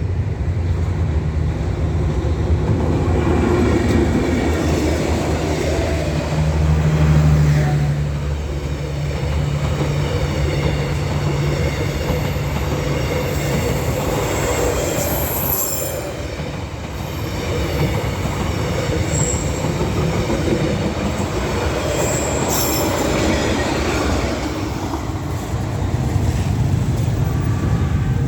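D19E diesel-electric locomotive hauling a passenger train past, its engine a steady low hum through the first half that fades as the coaches follow. The coaches roll by on the track, with brief high wheel squeals about halfway through and again later.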